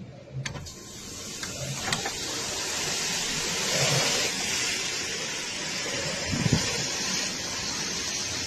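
Typhoon wind and heavy rain: a loud rushing hiss that builds about a second in and swells strongest around four seconds, with a brief low thump near six and a half seconds.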